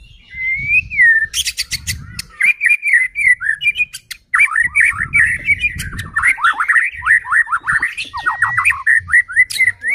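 White-rumped shama (murai batu) singing a rapid, varied song of whistles and quick down-slurred notes, broken by harsh clicking rattles.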